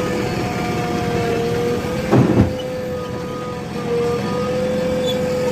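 Heavy vehicle engine running steadily with a high, level whine over its hum. A short, loud clatter comes about two seconds in.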